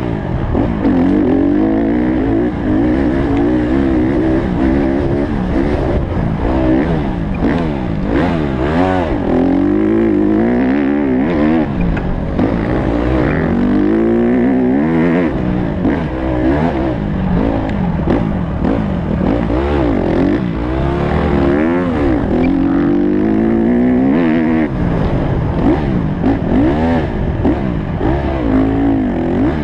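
Honda CRF150 dirt bike's four-stroke single-cylinder engine revving up and down again and again, its pitch climbing and dropping every second or two as the bike accelerates, shifts and backs off around the track.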